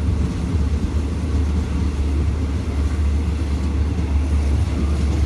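Steady low rumble of a moving train, heard from on board, running evenly with no distinct rail clicks.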